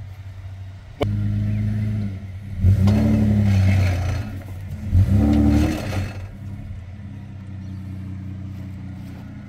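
Toyota Land Cruiser 80 Series engine running under load in soft sand, with a sharp click about a second in as the engine note steps up, then two revs, each rising and falling back, before it settles to a steadier, quieter run.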